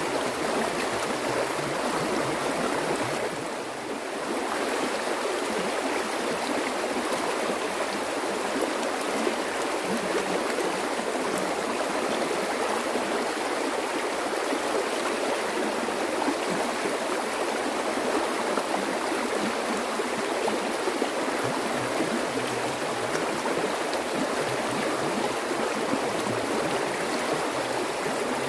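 Flowing water, a steady rushing wash, dipping slightly for a moment about four seconds in.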